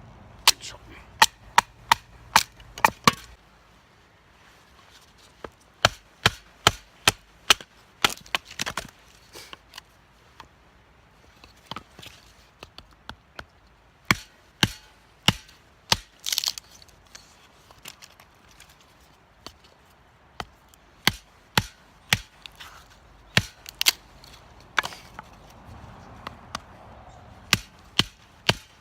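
Sharp, hard strikes repeated in runs of several at about two a second, with pauses of a few seconds between runs.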